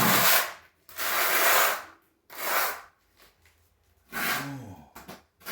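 Tile trowel scraping thinset mortar across the floor, with three long rasping strokes in the first three seconds.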